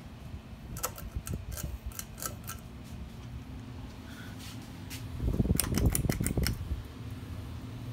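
Ceiling fans (a Fasco Charleston, Hunter Summer Breeze and Hampton Bay Minuet II) running with a steady motor hum, with a run of light clicks in the first few seconds. About five seconds in, a louder low rumble with clicking lasts a second or so.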